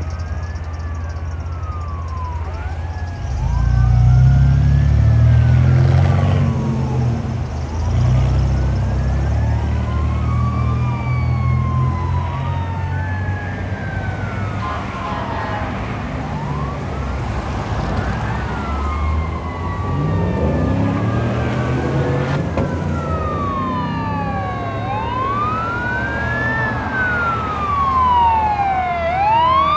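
Several fire apparatus sirens wailing and yelping over one another, rising and falling in pitch throughout, with loud low air horn blasts from about 3 to 7 seconds and again from 8 to 10 seconds.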